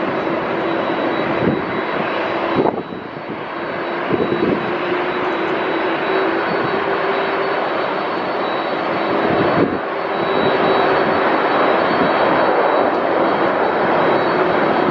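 Airbus A380 four-engined jet airliner passing, its turbofans running loud with a steady whine over a rushing roar. The sound breaks off sharply and picks up again twice, about 3 and 10 seconds in.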